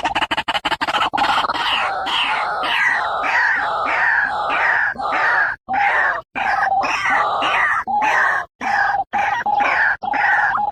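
White-breasted waterhen calling: a fast run of short pulses, then a string of repeated harsh notes at about two to three a second.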